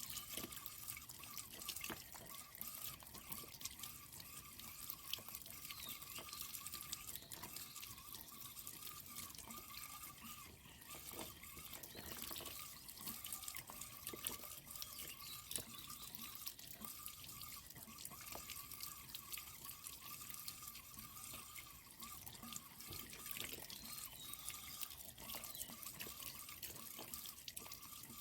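Water running and trickling steadily, with many small drips and splashes.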